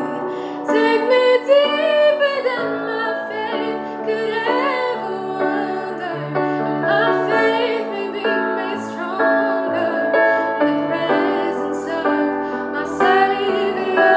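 A woman singing a slow, melismatic melody with vibrato over piano and sustained keyboard accompaniment.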